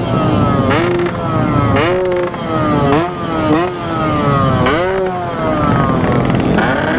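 Yamaha RX-King 135cc two-stroke single-cylinder engine being revved in short throttle blips, about once a second, the pitch jumping up and sagging back between blips. The rider says the spark plug is failing and the engine is about to die.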